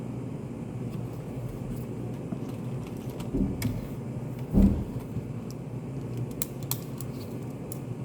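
Study café room ambience: a steady low hum, with scattered small clicks and taps. There is a soft knock about three and a half seconds in and a louder thump about a second later.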